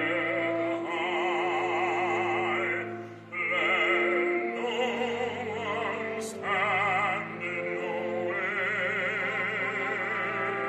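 Operatic singing with strong vibrato over sustained instrumental accompaniment, with a brief breath between phrases about three seconds in and a small click a little after the middle.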